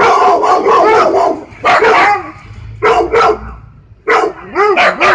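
A dog barking: a quick run of barks at first, then single and paired barks with short gaps between them.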